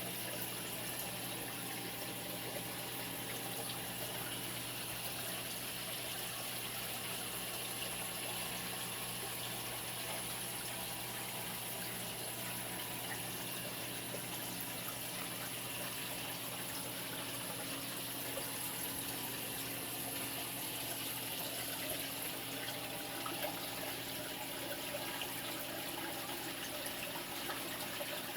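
Saltwater aquarium system running: steady rushing, splashing water over a low steady hum.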